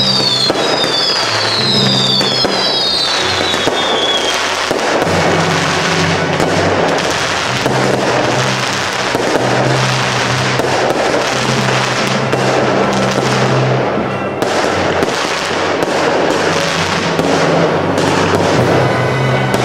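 Dense fireworks barrage, crackling and popping continuously, with several falling whistles in the first few seconds, over background music.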